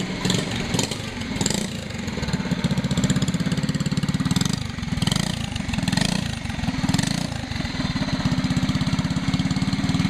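Brand-new Briggs & Stratton Animal single-cylinder four-stroke go-kart engine running on its first start. It pulses rapidly at a low, steady speed, with its loudness wavering a little.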